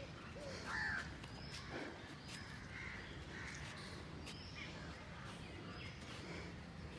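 Several birds calling and chirping, short overlapping calls one after another, with one louder call about a second in.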